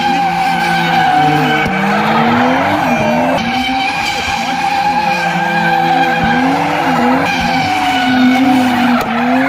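A drift car's engine revving up and down over and over, roughly once a second, while its tyres squeal without a break through a long slide.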